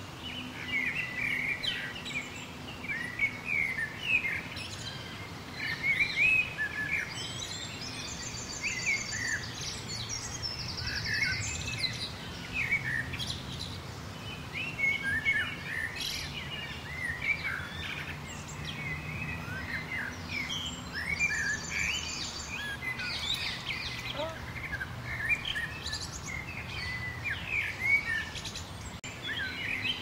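Many songbirds chirping and singing at once, short calls overlapping without a break. A fast, high trill stands out twice, about a third of the way in and again about two-thirds through, over a faint steady low hum.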